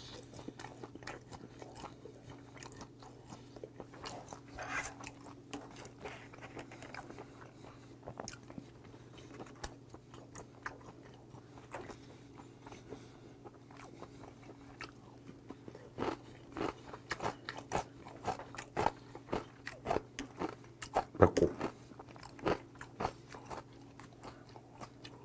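Close-miked chewing of raw yellowtail sashimi and kimchi: wet mouth clicks and crunches, denser and louder in the second half, over a low steady hum.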